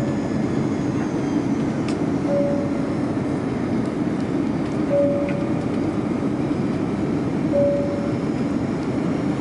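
Steady cabin noise inside an airborne Airbus A340-300 airliner: the even rumble of its engines and airflow, with a short beep repeating about every two and a half seconds.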